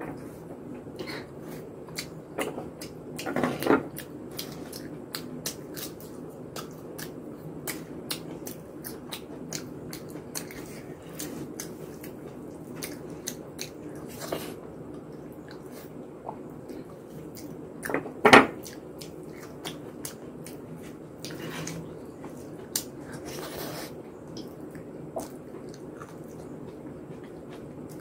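Close-up mouth sounds of eating khichuri by hand: wet chewing and smacking mixed with soft squishy sounds of fingers working the rice and lentils. There are many small clicks throughout, a louder stretch about three seconds in, and one sharp loud sound about eighteen seconds in.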